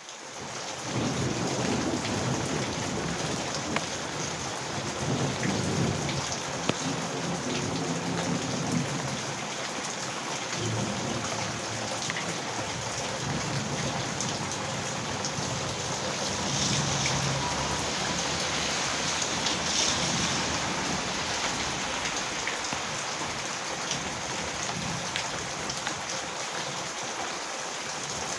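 Heavy rain falling steadily, with low rolling thunder rumbling underneath, strongest over the first dozen seconds and again a little past the middle.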